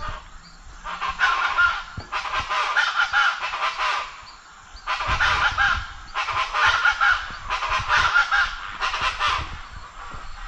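Very loud, harsh bird calls, crow-like in tone but in a different rhythm, repeated rapidly in several runs with short breaks between and a brief lull midway.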